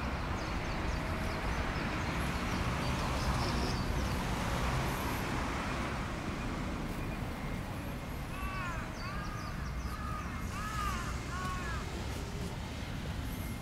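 Steady outdoor background noise with a low rumble and faint high bird chirps in the first few seconds. About eight seconds in, a bird gives a quick run of about seven arched calls over some three seconds.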